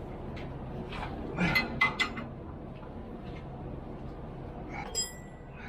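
Metal tools and parts clinking as they are handled: a quick cluster of clinks about a second and a half in, and one ringing clink near the end, over a steady low hum.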